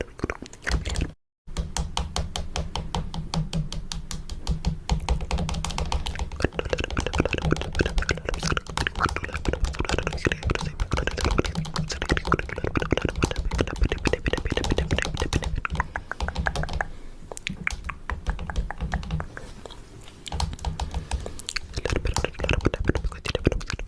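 Rapid fingernail tapping on a camera and microphone for ASMR: a dense run of fast clicks with low thuds underneath. The sound drops out for a moment about a second in.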